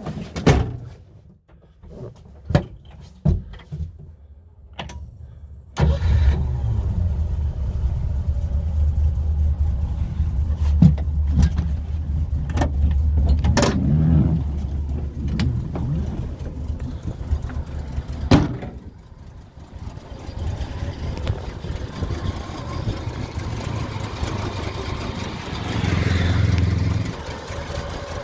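A military Land Rover's Rover V8 engine, heard from inside the cab, starts about six seconds in after a few clicks and knocks, then runs steadily. There is a sharp knock partway through and a brief blip of revs near the end.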